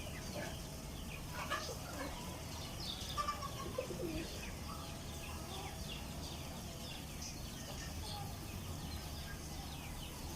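Chicken chicks peeping in scattered short, high chirps that often fall in pitch, over a steady low rumble.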